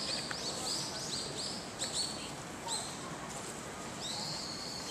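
Small birds chirping: a quick series of short, high chirps through the first three seconds, then one longer call near the end, over a faint steady background hiss.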